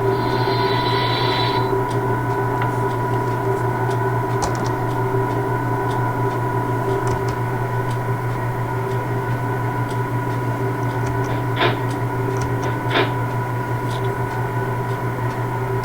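Steady electrical and mechanical hum of a standing railway locomotive, holding several fixed tones. A higher hiss cuts off about two seconds in, and two short hisses sound near the end.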